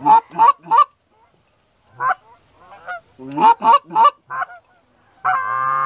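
Goose honks, loud and in quick runs: three right at the start, a silent gap, then a cluster of four or five about three seconds in. Near the end comes a longer, steady held honk.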